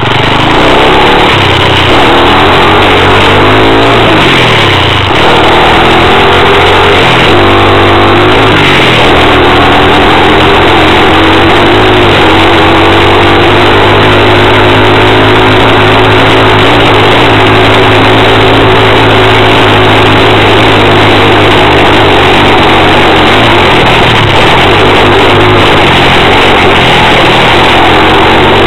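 Lifan 110cc pit bike's single-cylinder four-stroke engine running loud. Its pitch rises and falls with the throttle for the first several seconds, then holds fairly steady.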